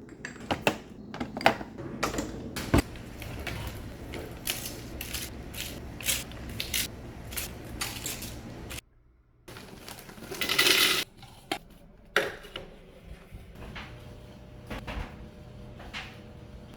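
Clatter of household items being handled and set down, a run of scattered clicks and knocks. About ten seconds in there is a short rushing hiss lasting about a second.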